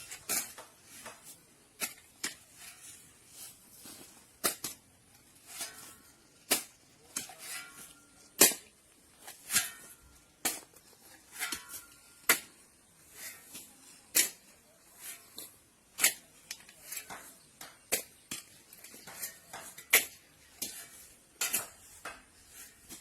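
Irregular sharp clicks and knocks, roughly one to two a second, some much louder than others, over a faint high hiss.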